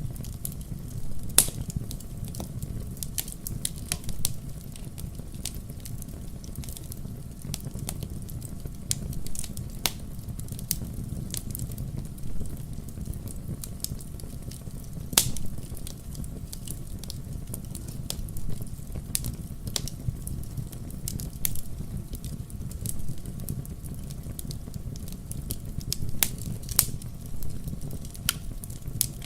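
Wood fire in a fireplace crackling, with irregular sharp pops over a steady low rumble of the flames; two louder pops stand out, one about a second and a half in and one about halfway through.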